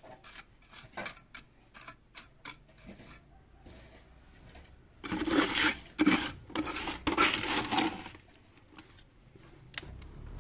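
Hand tools at work on pipe and masonry: scattered clicks and knocks, then about three seconds of loud scraping and rasping a little past the middle.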